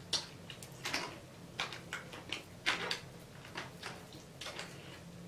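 Eating sounds close to the microphone: irregular wet clicks and smacks of chewing, about two a second.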